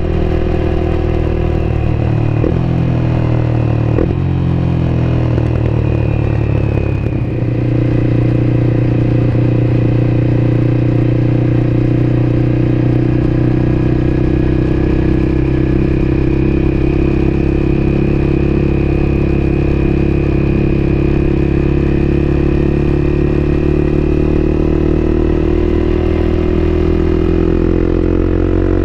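Honda CBR250R's single-cylinder engine running under way. The engine note steps down twice in the first few seconds, holds fairly steady through the middle, and climbs near the end.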